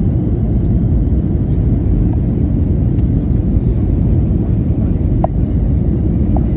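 Steady low rumble of engine and airflow noise inside an Airbus A320-200 passenger cabin on approach to landing.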